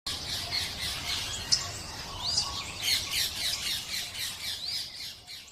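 A flock of budgerigars and cockatiels chattering: a dense run of short chirps, with a couple of louder rising-and-falling whistles. There is a single sharp click about a second and a half in.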